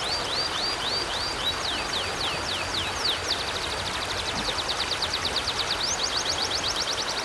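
A bird singing a fast, unbroken run of repeated high chirps, the notes changing pattern a couple of times, over the steady rush of flowing river water.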